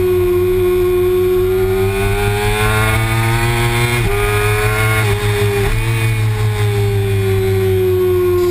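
Kawasaki Ninja ZX-6R's inline-four engine running hard at high revs, heard onboard with wind rumble on the microphone. The pitch climbs slowly, dips sharply twice about four and five and a half seconds in, then slowly falls away.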